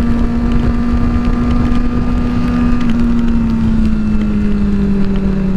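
Motorcycle engine running at a steady cruise, its pitch easing down slightly about halfway through, with wind rushing over the helmet-mounted microphone.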